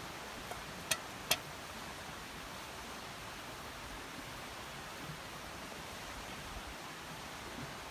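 Steady rushing outdoor noise, with two sharp clicks close together about a second in.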